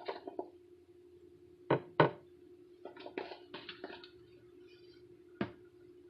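Kitchen handling noises as food is laid out on a counter: two sharp knocks close together, a quick run of lighter clicks and taps, then one more knock near the end, over a steady low hum.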